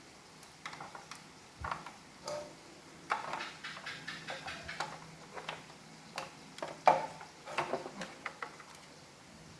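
Irregular clicks and light knocks of hard plastic parts of a Roomba robot vacuum being handled and fitted by hand, with one sharper knock past the middle.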